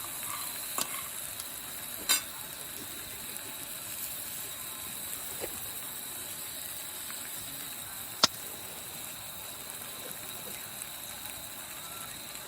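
Wood campfire crackling and hissing steadily, with a sharp pop about two seconds in and a louder single snap a little past eight seconds.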